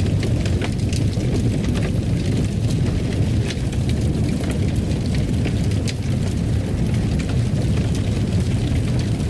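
Wood fire burning in a fireplace: a steady low rumble with frequent small crackles and pops scattered through it.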